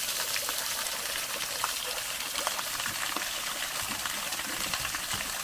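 Steady rush of a small stream, with faint drips and splashes as water is scooped into a canister.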